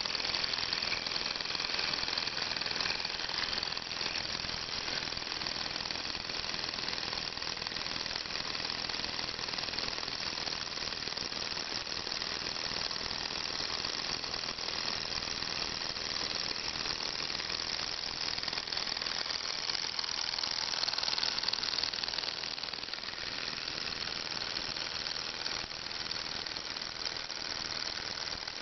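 Small hot-air Stirling engine with a Ross yoke linkage running steadily, its moving parts making a rapid, even clicking.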